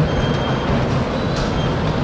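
Bumper cars running on the rink: a steady rumble, with one sharp click about one and a half seconds in.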